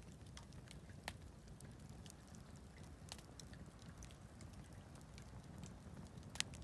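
Wood campfire crackling faintly: scattered sharp snaps and pops, the loudest a little before the end, over a low steady rumble.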